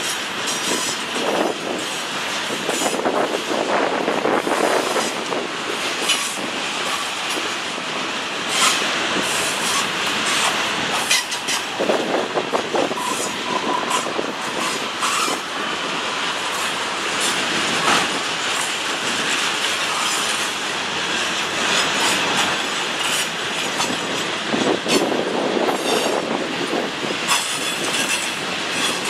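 Freight train cars rolling past: a steady rumble and rush of steel wheels on rail, with frequent clicks over rail joints and brief wheel squeal.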